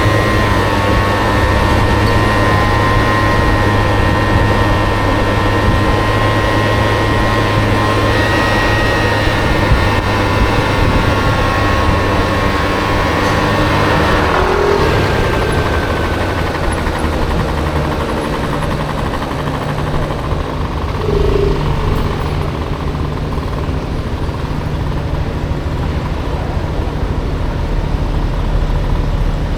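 Honda Motocompo scooter with a swapped-in Honda Dio engine running under way through city traffic. About halfway through the engine note changes: the higher steady tones drop away and a lower one takes over.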